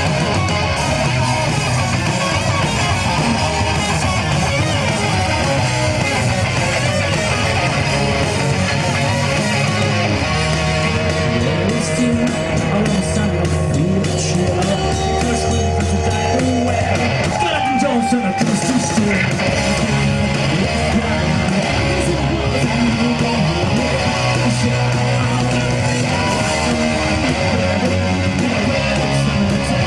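Rock band playing live, with strummed distorted electric guitar over bass guitar in a steady, loud instrumental passage.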